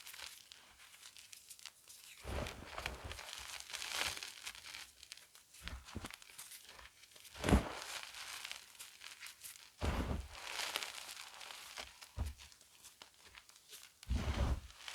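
Gym chalk being crushed and crumbled by hand close to the microphone: crunching and crackling, with a soft thud about every two seconds.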